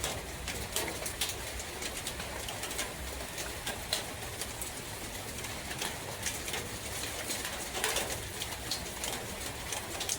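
Steady rain in a forest, with a dense patter of drops and scattered sharper drips, and a bird calling through it.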